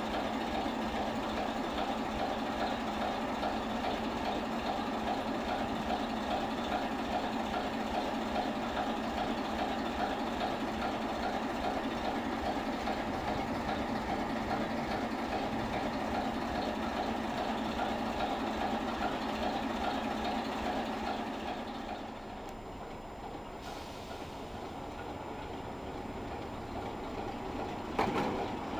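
Class 751 'Pegas' diesel locomotive running, a steady dense engine sound that eases off about two-thirds of the way through, with a sharp clank near the end.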